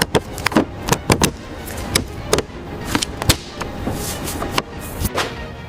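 A quick, irregular run of sharp clicks and knocks, several a second, over faint background music.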